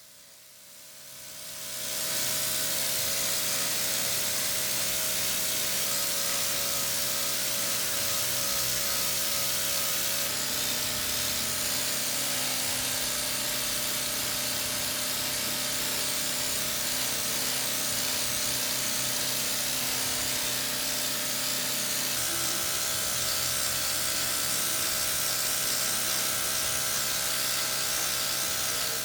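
A small high-speed power tool running steadily with a strong hiss; its whine changes pitch twice, about a third and three quarters of the way through. It fades in at the start and fades out at the end.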